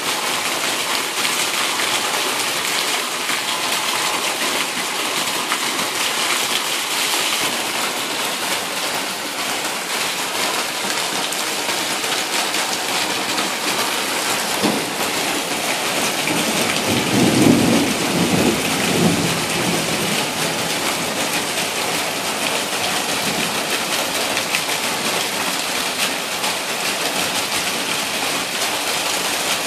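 Heavy rain pouring down steadily in a thunderstorm. About seventeen seconds in, a low rumble of thunder rolls for two or three seconds.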